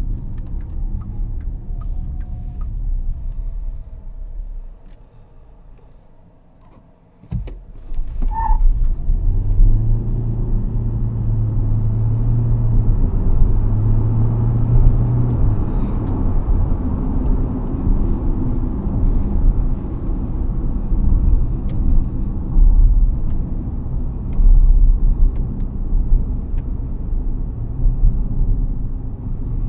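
BAIC BJ30e 1.5T hybrid SUV driving, with steady low road and tyre rumble. The rumble fades to quiet for a few seconds, then a knock, a brief high tone, and the noise rises again with a steady engine drone for about six seconds before settling back into steady road rumble.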